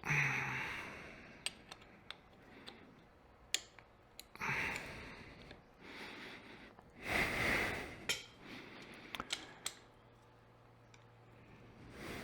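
Small clicks and light knocks of motorcycle fork parts being handled, with three short hissing rushes of noise: at the start, about four and a half seconds in, and about seven seconds in.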